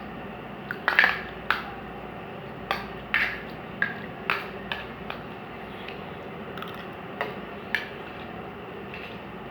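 Spoons clinking and scraping against plates of pulao during eating, about a dozen sharp, irregular clicks.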